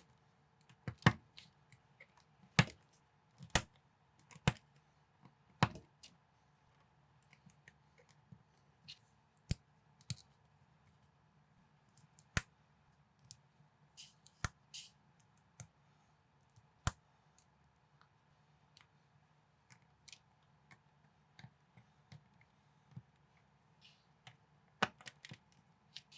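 Plastic building bricks clicking and snapping together by hand: irregular sharp clicks, roughly one or two a second, with a few louder snaps among them.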